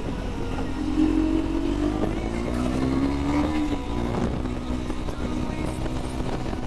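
Sport motorcycle engine running on the move, its pitch rising steadily as it accelerates from about a second in, then dropping back just before the four-second mark.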